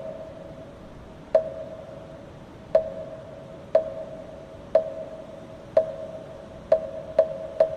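Moktak, the Korean Buddhist wooden fish, struck with a mallet, each hollow knock ringing briefly. The strokes come slowly at first, about one every second and a half, then speed up to about two a second near the end.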